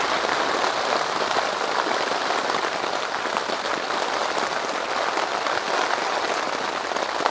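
Steady rain falling on a One Tigris hot tent, heard from inside the tent as an even, unbroken patter.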